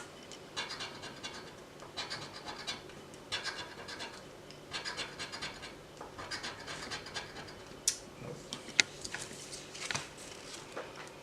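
A scratch-off lottery ticket being scratched: repeated bursts of quick scraping strokes across the ticket's coating, with a couple of sharp taps about eight seconds in.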